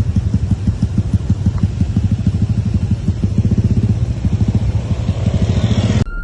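A vehicle engine running close by with a rapid, even low throb, and a rush of traffic noise swelling near the end. It cuts off abruptly just before the end.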